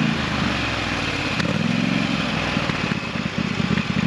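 Small engine running, throttling down about a fifth of a second in and then idling with a lumpy, pulsing beat.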